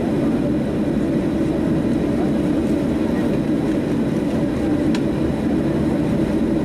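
Steady cabin noise inside a Boeing 737-700 after landing: the engines running at idle with a constant low rumble and hum, with no break or change in level.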